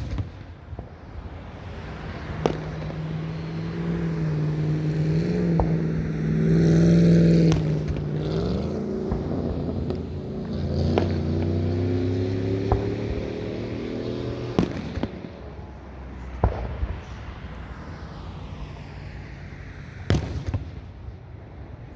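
Fireworks going off in the distance: about seven sharp bangs a few seconds apart. Under them, a vehicle engine hums past, loudest about seven seconds in.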